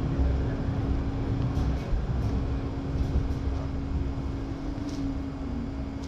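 Lausanne-Ouchy rack railway car climbing uphill: a continuous low running rumble under a steady electrical hum. The hum drops out for a moment about two seconds in.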